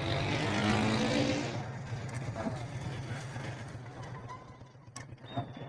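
A motor vehicle engine running with a steady low hum, louder over the first second and a half and then fading. A single sharp click comes near the end.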